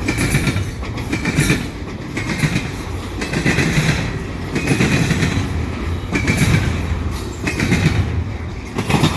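Canadian Pacific train's cars rolling past at close range, wheels clacking over the rail joints in a regular rhythm of roughly one clack-group a second over a steady rumble.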